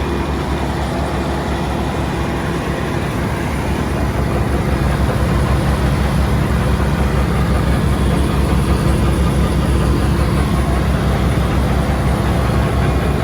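A heavy engine running steadily with a low rumble, growing gradually louder.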